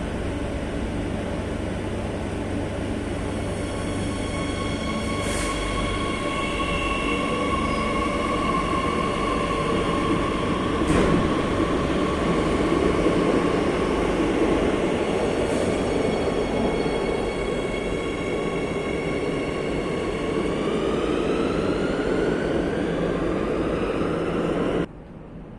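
Madrid Metro Line 8 train running on the rails: a steady rumble with the whine of its electric traction motors and a few sharp clicks from the track. About twenty seconds in, the whine climbs in pitch as the train picks up speed. Near the end the sound drops off sharply.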